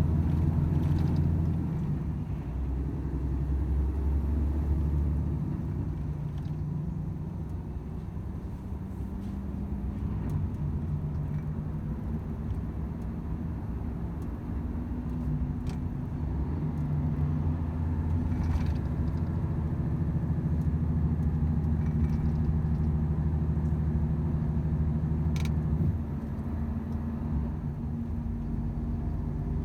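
Volvo FH 500 truck's 13-litre six-cylinder diesel engine running on the road: a steady low drone that shifts in pitch a few times as the engine speed changes, with a few faint clicks.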